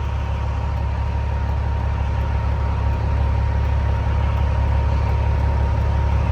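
Semi truck's diesel engine idling steadily: a deep, even hum with a faint steady whine above it.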